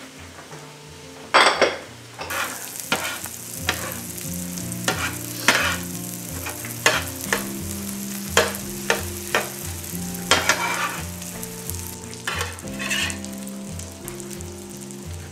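Beaten eggs and sausage patties sizzling on a hot electric griddle while a spatula pushes and scrapes the eggs around, with frequent short sharp scrapes against the griddle plate. One louder burst comes about a second and a half in.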